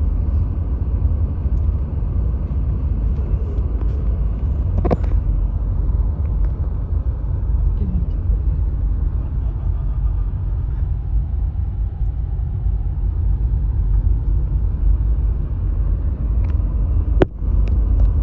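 Steady low rumble of a car driven slowly, heard from inside the cabin, with a sharp click about five seconds in and another near the end.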